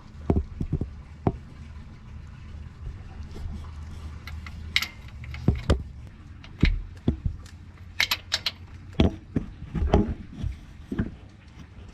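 Hand pump working gear oil into a manual transmission: irregular plastic and metal clicks and knocks from the pump and its hose fittings, over a steady low hum.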